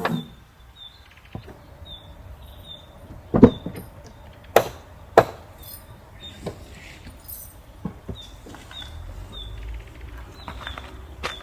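Three sharp knocks a little over a second apart, the first the loudest, followed by a few fainter taps, while a bird chirps repeatedly in the background.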